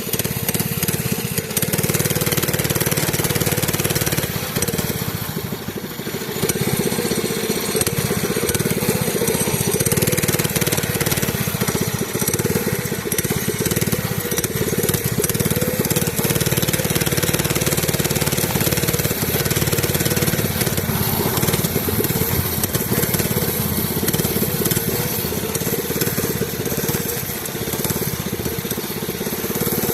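Mini bike's small engine running steadily while being ridden, with constant wind hiss over the microphone.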